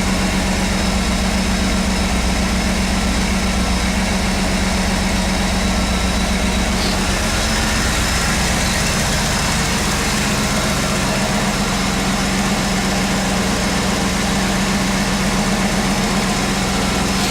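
1993 Camaro Z28's LT1 350 V8 idling steadily while warming up after a cold start, heard up close from the open engine bay.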